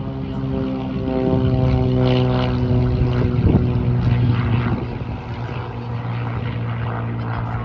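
Light propeller airplane's engine and propeller running, growing loudest in the middle with its pitch sinking slightly as it passes, then easing to a steadier drone.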